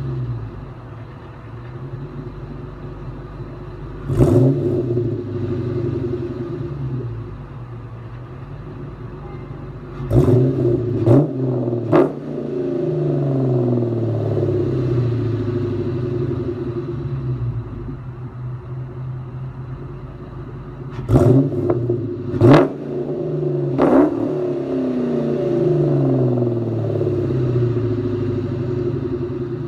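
2000 Ford Mustang GT's 4.6-litre V8 through an off-road H-pipe and Magnaflow mufflers, idling with a rumble and blipped seven times: once about four seconds in, then two quick groups of three. Each rev rises sharply and drops back to idle.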